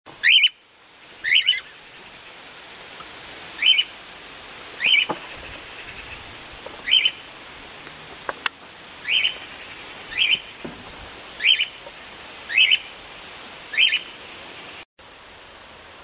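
A caged bird giving the same short, rising call over and over, ten times at intervals of one to two seconds, over a steady background hiss.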